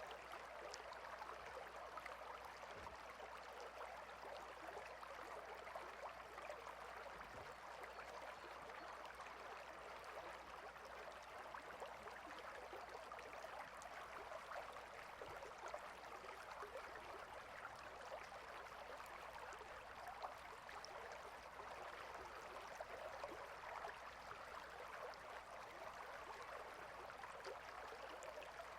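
A small stream flowing steadily, with a faint, even babble of running water.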